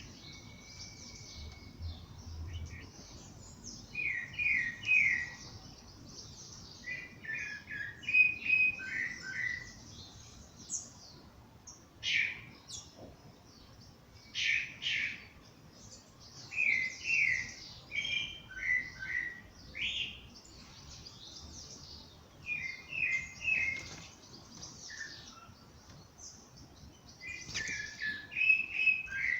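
Songbirds in a dawn chorus. One bird repeats short phrases of quick falling notes every few seconds over steady higher twittering from other birds.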